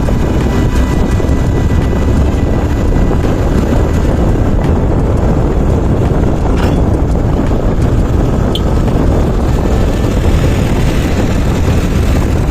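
Motorbike on the move: a loud, steady wind rumble on the microphone with the engine running underneath.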